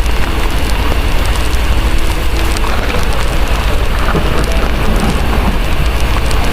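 Heavy rain falling steadily over a continuous deep rumble, with scattered small crackles of a wood fire mixed in.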